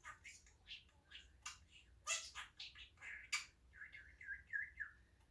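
English budgerigar chattering: a rapid string of short chirps and clicks, then a warbling run of notes about four seconds in.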